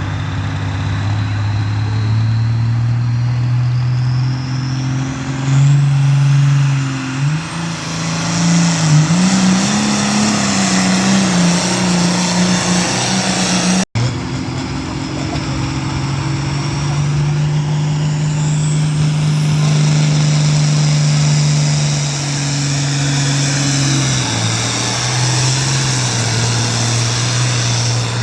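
Engine of a pulling truck or tractor running hard under load, its pitch climbing and wavering, with a high whine rising above it. It breaks off about halfway through and another puller's engine takes over, holding a steady note that drops near the end.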